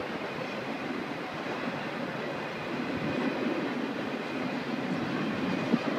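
Canadian Pacific freight train's cars rolling past: a steady rumble and rattle of wheels on the rails, with one sharp clank near the end.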